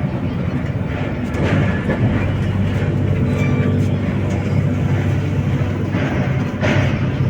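Steady low rumble of a vehicle running, with a few short knocks.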